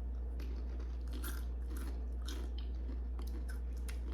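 Someone chewing dry, crunchy barbecue-flavored wheat puffs: an irregular run of crisp crunches, over a steady low hum.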